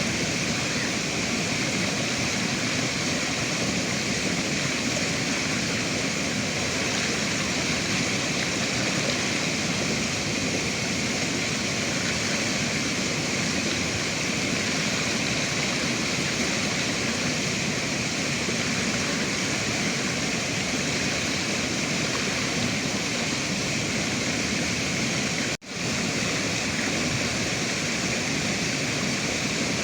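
River water rushing steadily, a continuous even wash of flowing water, broken by a split-second dropout about four seconds before the end.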